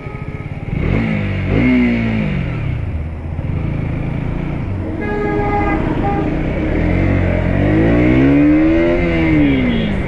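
KTM Duke motorcycle engine pulling away and accelerating through the gears. Its pitch climbs and drops twice. A horn sounds briefly about five seconds in.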